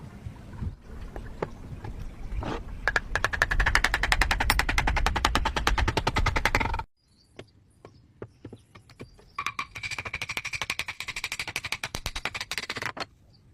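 A power tool running with a fast rattle, in two stretches: a loud one that stops suddenly about seven seconds in, then a quieter one a couple of seconds later.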